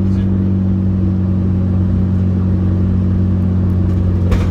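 Turbocharged 2.5-litre EJ257 flat-four with equal-length headers in a GC8 Subaru Impreza, heard inside the stripped-out cabin, pulling along at a steady engine speed. A short sharp click comes near the end.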